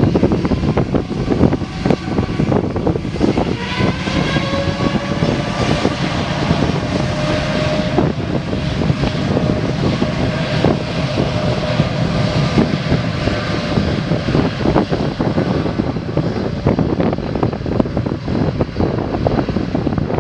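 Aircraft engines running loud and steady, with a whine that rises in pitch from about four seconds in, over a heavy low rumble.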